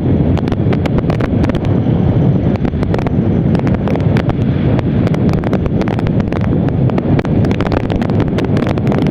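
Heavy wind buffeting on the microphone of a motorcycle riding at highway speed, with frequent crackling gusts over a dense low rumble of wind and riding noise.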